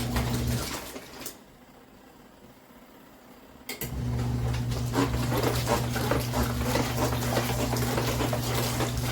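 Small electric motor of a ZenStyle twin-tub portable washing machine humming while water churns in the tub. It stops about half a second in, stays quiet for about three seconds, then starts again with a click and runs steadily with the water sloshing.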